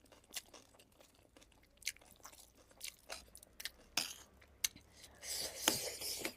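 Close-miked chewing of gilo chatpate, a wet, spicy puffed-rice snack: scattered soft crunches and mouth clicks, with a longer, noisier stretch of crunching about five seconds in.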